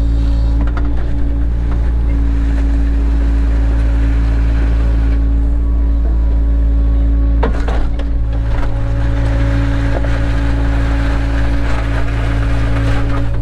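Cat 307 excavator's diesel engine running steadily with a deep hum, its sound shifting about halfway through as the load changes. A few sharp knocks sound over it, one about halfway through and one near the end.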